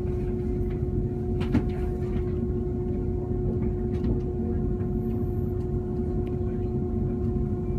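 Steady running rumble inside the passenger car of a CRH1 electric multiple unit, with a constant hum over it.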